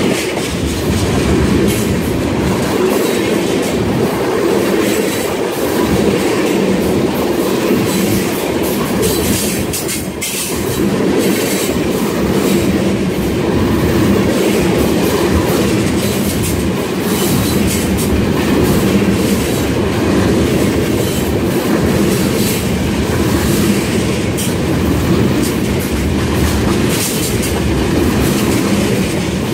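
Freight train tank cars rolling past close by: a steady rumble of steel wheels on rail, with repeated clicking as the wheels cross the rail joints.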